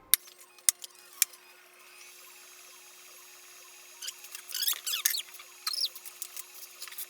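Aluminium being welded on a scrap test piece: a few sharp clicks, then the arc sputtering and crackling in irregular short bursts over a steady hum.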